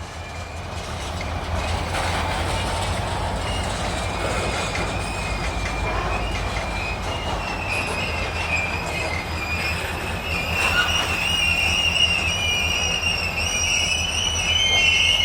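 Freight cars of a slow Union Pacific local train rolling past over a steady low rumble, their wheels squealing on the rail. The squeal is a high, wavering tone that comes in about four seconds in and grows louder toward the end.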